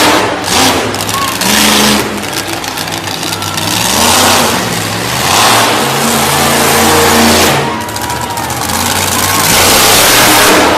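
Monster truck engine revving hard in repeated surges, very loud and rising and falling in pitch.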